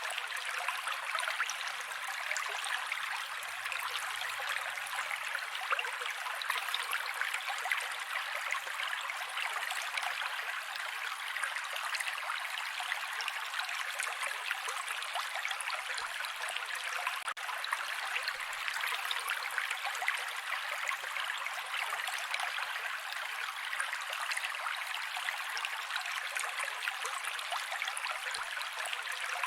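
Mountain creek flowing steadily over rocks, a continuous rush of water with many small splashes and trickles.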